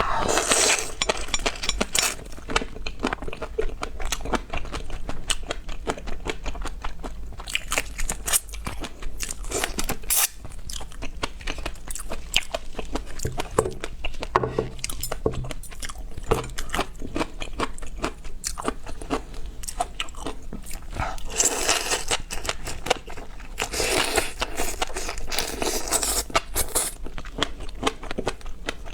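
Close-up crunching and chewing of seafood: a dense run of crackly clicks and bites throughout, with louder crunchy stretches near the start and twice in the last third.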